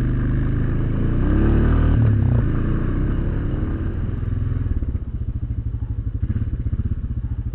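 ATV engine running under way, picking up revs and rising in pitch between one and two seconds in, then easing off about five seconds in. It is heard through a bullet camera fitted with a foam-backed sound cap.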